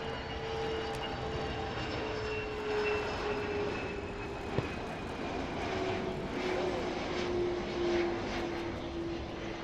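Jet aircraft flying past: steady engine noise with a whine that slowly falls in pitch as it goes by.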